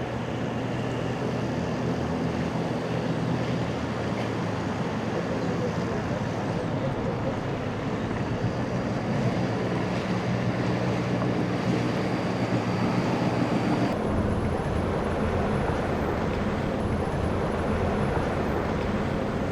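Boat engines running steadily, with wind noise on the microphone; the engine tones shift about two-thirds of the way through.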